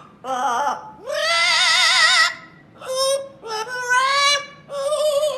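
Pet parrot singing in a human-like voice: five short sung phrases, the longest a wavering, vibrato-laden note about a second in.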